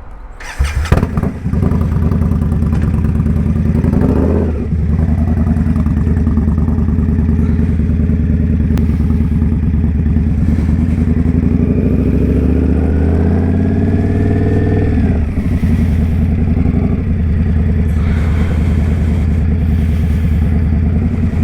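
Indian Scout Bobber motorcycle's V-twin engine coming on loudly about a second in and running steadily. Its pitch rises and then drops back about two-thirds of the way through.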